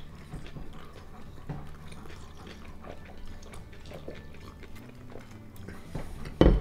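Soft chewing and mouth clicks of someone eating, over a steady low hum, with one short, loud knock near the end.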